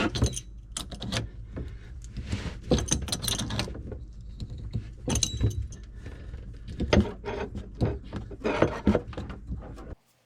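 Metal wrench clinking and scraping on the faucet's water supply line fittings while the last connections are tightened: a run of irregular clicks and clanks that cuts off suddenly near the end.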